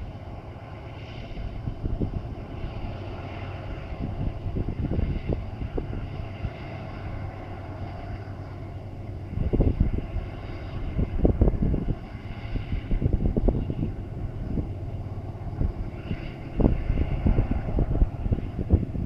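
Iron-ore freight train rolling across a railway viaduct: a steady low rumble with recurring louder clatters of wagon wheels on the track.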